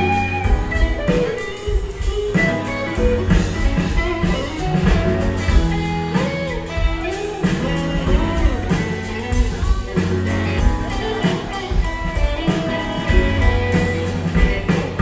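Live band music with electric guitar over a steady rock drum beat, an instrumental passage of a Texas country-rock song.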